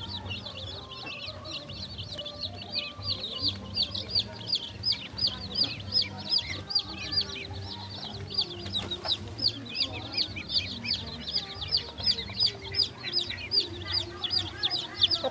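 Young poultry peeping: a steady, rapid run of short high peeps, about three or four a second, from a group of chicks or ducklings at feeding.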